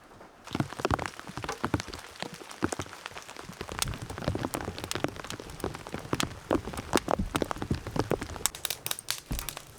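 Rain falling, with many separate drops hitting a hard surface close by in an irregular patter. It starts suddenly about half a second in.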